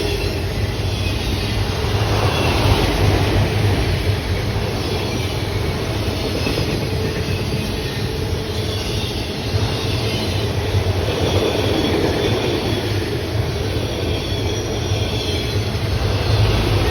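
A train rolling past, its wheels running steadily over the rails with some faint squeal.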